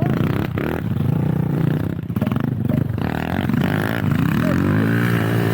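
Enduro motorcycle engine revving up and down under load, its pitch rising and falling, with several knocks and clatter along the way.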